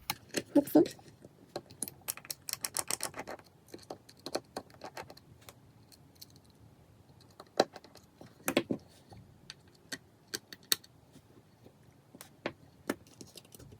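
Scattered light clicks and taps of small repair tools and tiny iPhone 5s parts being handled, with a quick run of rapid clicks about two to three seconds in and single taps after.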